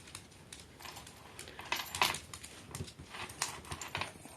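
Scattered light clicks and taps from a dog moving about on a hard floor, irregular, with a few sharper ones about two seconds in and again near the end.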